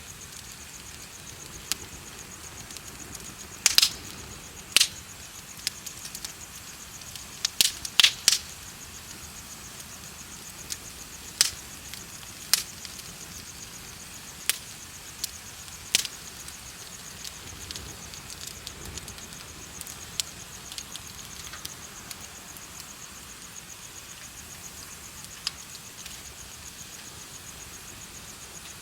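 Bonfire crackling with scattered sharp pops, a cluster of the loudest near 4 and 8 seconds in, over insects chirping in a steady, high, fast-pulsing trill.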